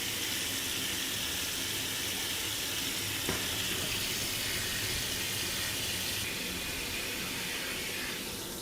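Warm water from a bathroom shower or tap running steadily at an even pressure, with a faint click about three seconds in.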